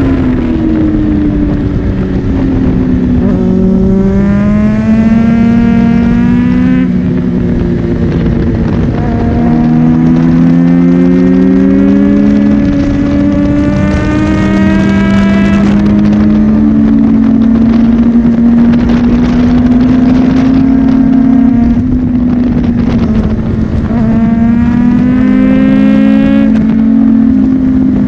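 Honda CBR600RR's inline-four engine running hard on track, its pitch climbing in three long sweeps under acceleration and dropping back between them as it shifts and slows for corners.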